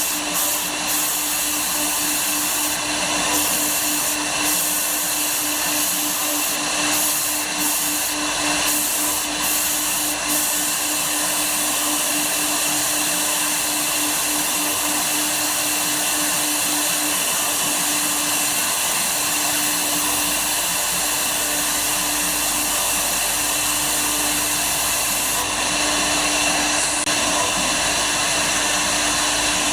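Woodworking CNC router running steadily: a continuous whirring hiss with a steady hum underneath, from the spindle and machine at work.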